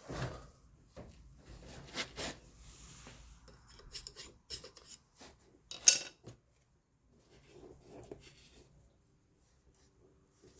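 Hand work with tools and parts: scraping and rubbing with light clinks, and one sharp clank about six seconds in, then only faint scrapes.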